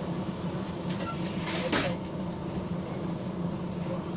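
Bus engine running with a steady low hum, heard from inside the bus, with a brief noisy clatter about a second and a half in.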